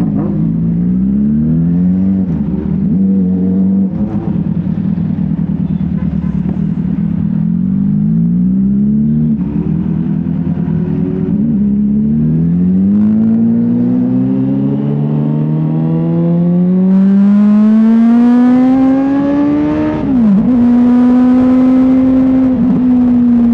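Motorcycle engine accelerating through the gears: its pitch climbs and drops back at each upshift, several times in the first dozen seconds. It then makes one long slow climb, drops about 20 seconds in, and settles to steadier cruising.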